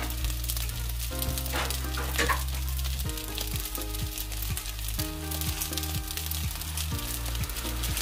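Rice frying in a skillet, a steady sizzling hiss with small crackles, heard under background music with a low bass line.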